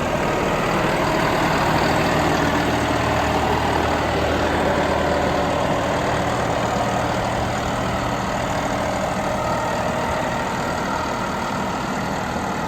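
A 2023 John Deere 5075E tractor's three-cylinder diesel engine running at a steady speed while the tractor is driven.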